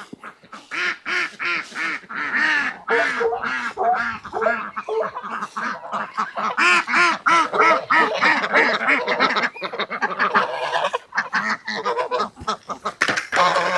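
A flock of poultry calling excitedly at feeding time: many short, overlapping calls several times a second, crowding together more densely after about a second in.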